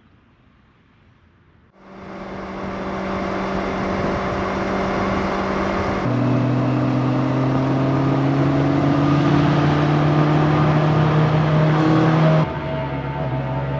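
Motorcycle engine heard from the rider's seat, cutting in suddenly about two seconds in and running at a steady pitch, then changing note and climbing slowly in pitch as the bike accelerates, before the pitch drops sharply near the end.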